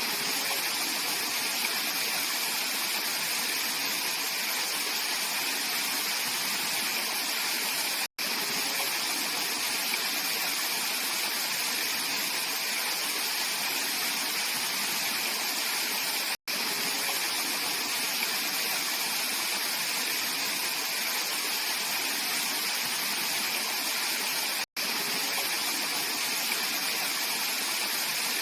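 Mountain valley stream flowing with a steady, even rush of water. A momentary silent gap breaks it about every eight seconds.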